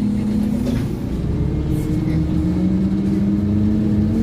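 Scania OmniCity double-decker bus's five-cylinder diesel engine and driveline pulling under acceleration, heard from on board. Its tone drops about a second in as the automatic gearbox changes up, then climbs slowly again as the bus picks up speed.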